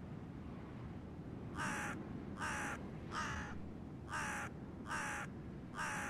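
A bird giving six harsh, evenly spaced calls, about one every 0.8 seconds, each short and slightly falling in pitch, starting about a second and a half in.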